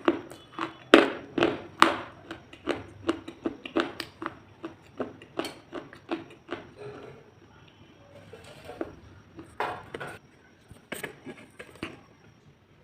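Crisp crunching: a rapid, irregular run of sharp crunches and crackles that thins out to scattered ones after about seven seconds.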